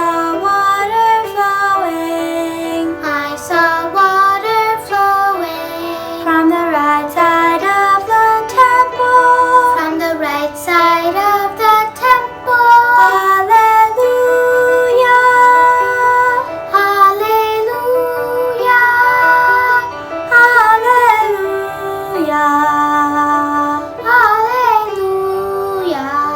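Children's choir singing a slow hymn melody, with some notes held and given vibrato near the end.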